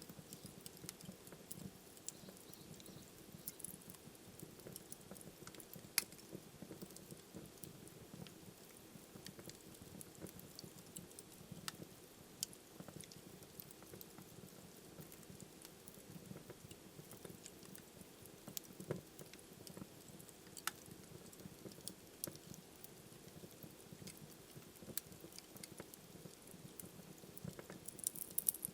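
Wood fire burning in a fireplace: a quiet low rumble of flames with irregular crackles and pops, one sharper pop about six seconds in and a cluster of crackles near the end.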